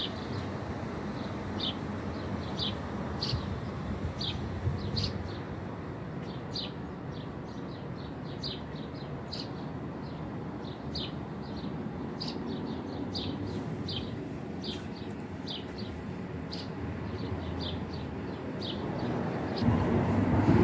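Small birds chirping repeatedly, about two short chirps a second, over a steady low street noise. Near the end a louder rush of noise comes in.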